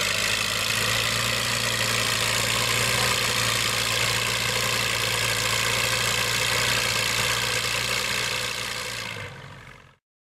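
Farm tractor engine idling steadily, fading out near the end.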